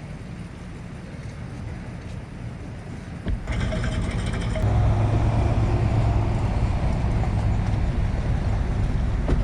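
Bass boat's outboard motor running with wind and water rush, getting louder about halfway through and holding a strong low drone.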